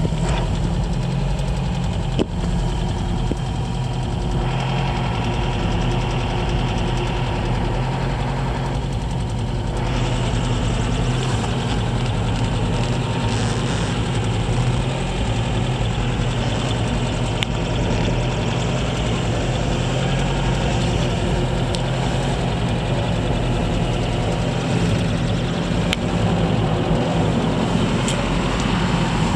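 1979 MGB roadster's 1.8-litre B-series four-cylinder engine idling steadily after a cold start.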